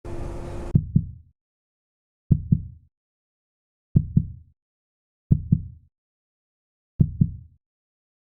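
Heartbeat sound effect: a slow double thump (lub-dub) repeating about every one and a half seconds, with dead silence between the beats.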